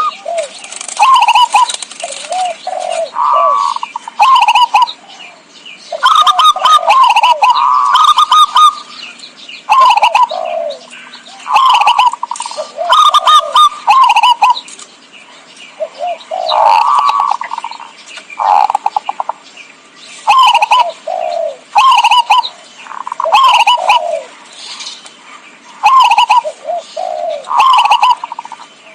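Zebra dove (perkutut) cooing: a loud, repeated series of short, trilled coo phrases, about one every second or two, as used to lure wild perkutut.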